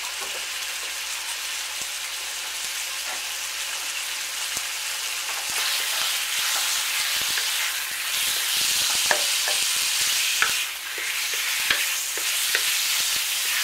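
Thin strips of raw chicken sizzling in hot oil in a non-stick electric wok. About halfway in a wooden spatula starts stirring them, adding light scrapes and taps against the pan, and the sizzle grows louder.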